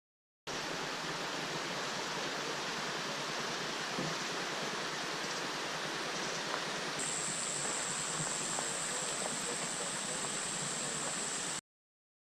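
Running water of a stream: a steady, even rush that starts and stops abruptly. A steady high whine joins about halfway through.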